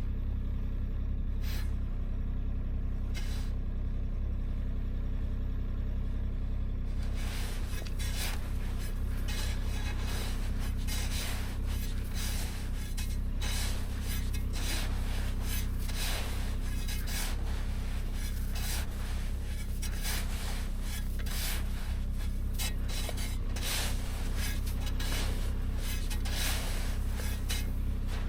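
A steady low engine drone runs throughout. From about seven seconds in, rapid, irregular rubbing and scraping noises join it.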